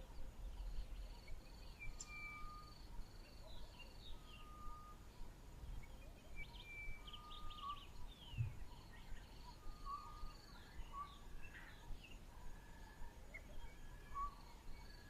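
Faint dawn-chorus-like birdsong: several birds giving short, repeated whistled notes and chirps at different pitches, over a low steady rumble.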